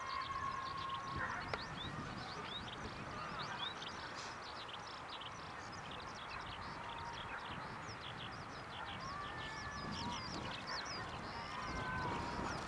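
Birds singing in the open: a dense stream of quick high chirps and twitters, with a few fainter drawn-out lower calls. A single sharp click comes about a second and a half in.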